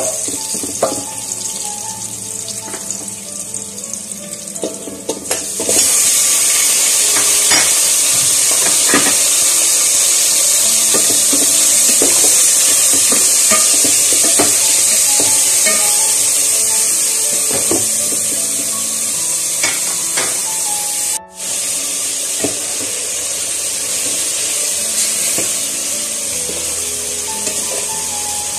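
Onion and garlic sizzling in hot oil in a metal pot, with a metal ladle clinking and scraping against the pot as it stirs. About five and a half seconds in, the sizzle jumps much louder as raw chicken pieces go into the oil, and the frying goes on loud under the ladle's knocks.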